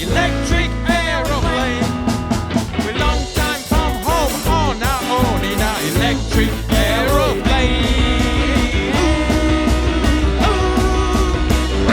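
Rock and roll band playing an instrumental passage: drums on a steady beat under a bass line and a lead part of quick notes that bend up and back down.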